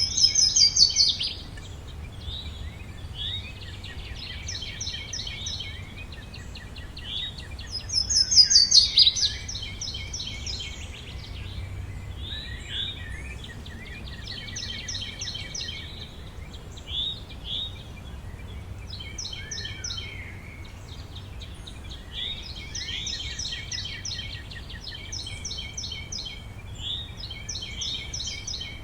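Several songbirds singing together in a forest chorus, with many short, rapidly repeated trilling phrases. The loudest is a bright song sweeping downward in pitch, heard twice: right at the start and about 8 seconds in. A steady low rumble of background noise runs beneath.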